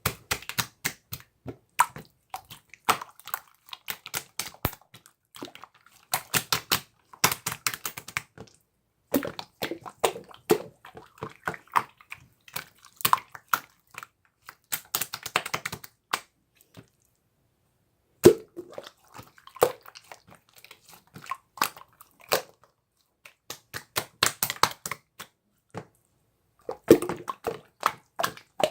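Slime being squeezed and worked by hand, crackling and popping with wet clicks in bursts of a second or two, with short pauses between them.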